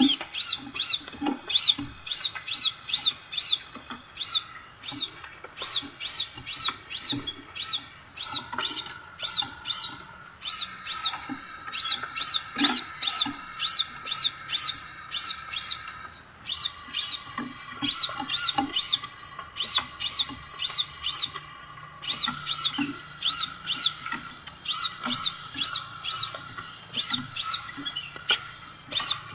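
Scarlet minivet (sepah raja) calling: a fast run of high, sharp whistled notes, each one sweeping in pitch, about three or four a second, in runs broken by short pauses. A fainter, steady twittering sits beneath it.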